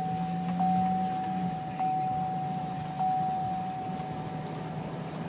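Warning chime of a 2007 Chevrolet Silverado, a single-pitched ding repeating about every second and a bit, then fading away near the end, over a low steady hum.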